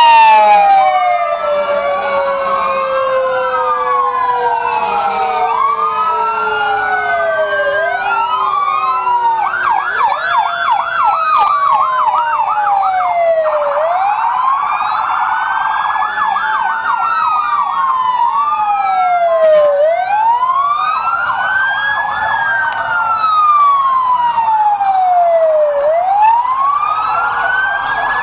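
Several emergency-vehicle sirens sounding at once, as fire trucks and other emergency vehicles pass in procession. Electronic wails rise and fall slowly every few seconds, overlapped by stretches of fast yelp, and one siren winds down in a long falling tone near the start.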